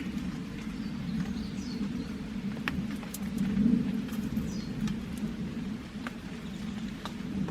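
Small wood campfire burning with scattered sharp crackles and pops over a steady low rush, while a bird chirps a few short falling calls.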